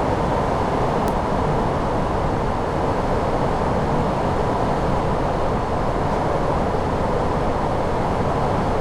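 Steady rushing noise on the flight deck of an Airbus A340-600 in flight on approach: airflow over the cockpit and the engines, even and unbroken, with a faint high tick about a second in.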